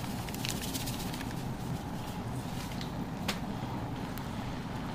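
Sauce bubbling steadily in a frying pan over a gas burner, with a metal spatula clicking against the pan a few times.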